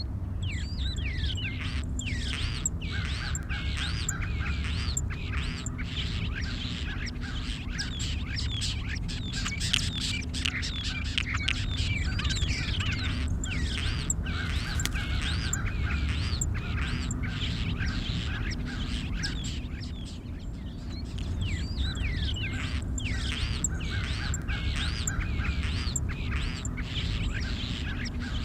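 Many small birds chirping and calling at once in a dense, continuous chatter, with a steady low rumble underneath.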